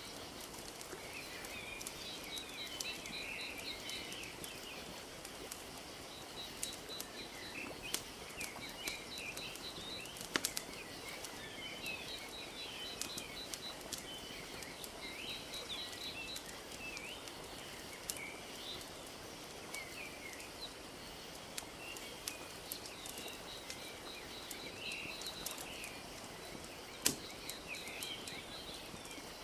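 Wood fire crackling with scattered sharp pops, over a steady wash of lake water lapping, while small birds chirp and trill in repeated short phrases.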